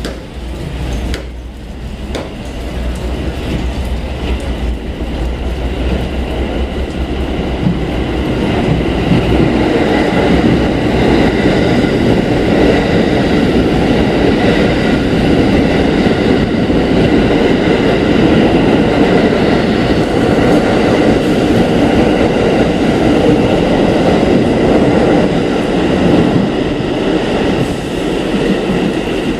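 New York City subway train pulling away and running along the track: the rumble of wheels on rail builds over the first several seconds and then holds steady, with a steady high whine over it.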